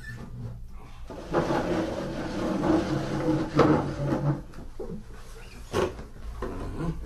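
Acoustic guitar being handled and played: wooden knocks on its body and a few seconds of ringing notes from about a second in, then a couple of sharp knocks near the end.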